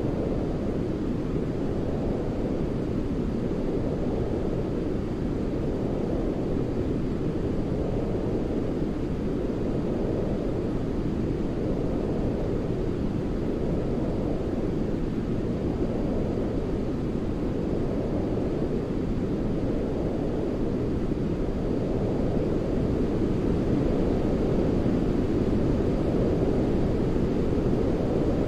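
Steady, deep rushing noise of a white-noise sleep track, weighted to the low end like brown noise, with a gentle swell and fall every couple of seconds. It grows slightly louder near the end.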